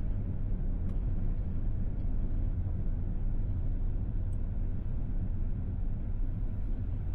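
Electric Tesla Model S driving on a snowy mountain road: a steady low rumble of tyre and road noise, with no engine note.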